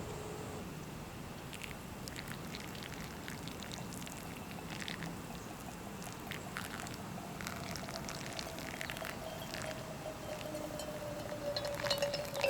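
Liquid pouring and trickling, with scattered light clicks throughout. A faint tone slides slowly down from about halfway through.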